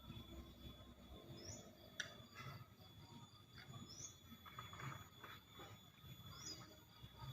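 Faint bird chirping: one short rising chirp about every two and a half seconds, with a single sharp click about two seconds in, over low background noise.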